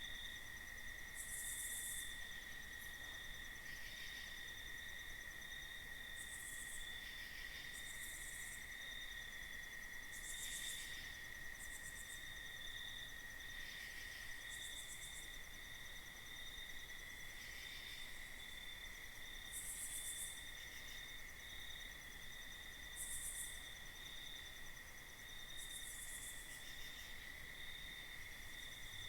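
Night insect chorus: crickets giving a steady high trill, with short, very high buzzes from another insect repeating every two to three seconds.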